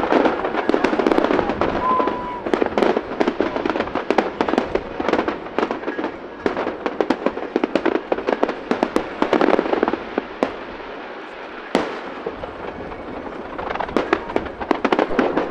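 Fireworks going off in quick succession, a dense run of sharp bangs and crackles. It thins out about two thirds of the way through and builds up again near the end.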